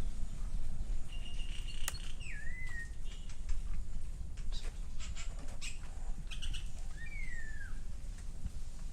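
A wild bird calling: a held whistle that breaks into a falling, bending note about two seconds in, then another falling call about seven seconds in. Scattered sharp snaps and rustles of betel leaves being plucked run under it.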